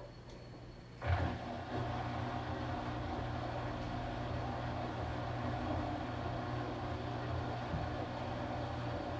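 Washing machine's drum motor starting up about a second in with a sudden knock, then running with a steady hum.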